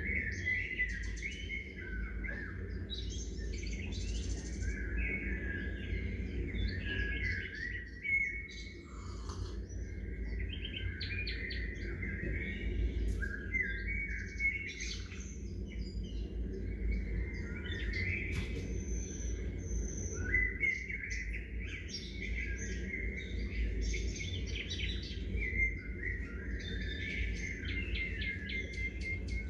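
Birds chirping and calling continuously, several overlapping at once in short high twittering phrases, over a steady low background rumble.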